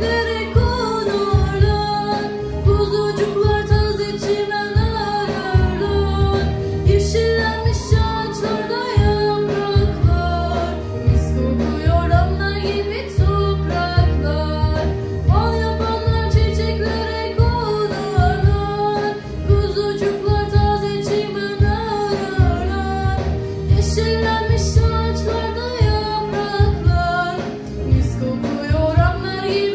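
A female vocal student singing a melody with sweeping slides up and down, over a steady instrumental accompaniment with a repeating low beat.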